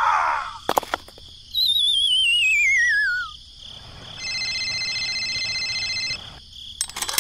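Cartoon sound effects: a high warbling whistle slides downward for about two seconds, then an electronic phone tone pulses steadily for about two seconds, with a few sharp clicks before and after.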